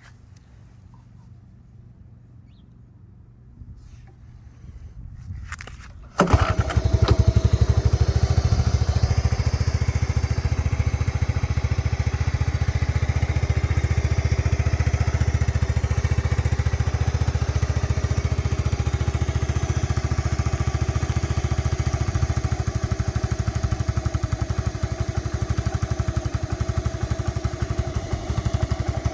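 1985 Honda TRX70's small four-stroke single-cylinder engine cold-starting in about 45-degree air. It catches about six seconds in, runs a little faster for a couple of seconds, then settles into a steady idle.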